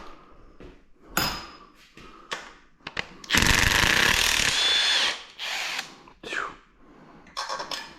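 A handheld power tool runs in one burst of about two seconds, working a fastener on an engine being torn down, amid short metallic clinks of tools and parts.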